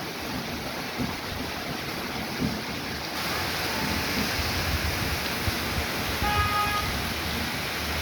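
Heavy rain pouring down in a steady hiss, with wind thumping on the microphone; the downpour grows louder a little over three seconds in. A short pitched tone sounds briefly near the end.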